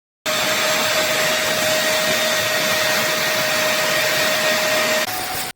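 Vacmaster SCA0801 carpet spot cleaner's suction motor running at a steady pitch: a steady whine over rushing air. It starts abruptly and cuts off abruptly near the end, with a small shift in pitch just before it stops.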